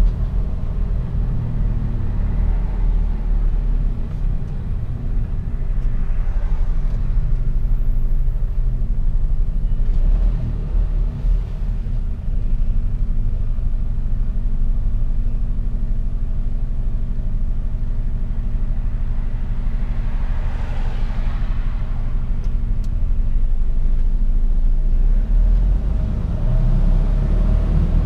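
Mercedes-Benz Actros truck's diesel engine running as it drives, a steady low rumble. A brief swell of hiss rises and fades about twenty seconds in.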